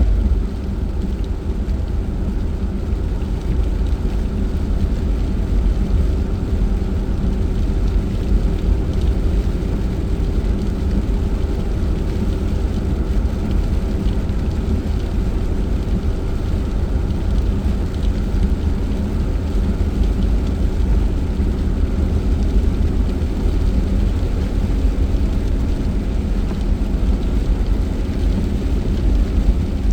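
Steady engine hum and road rumble inside a moving car.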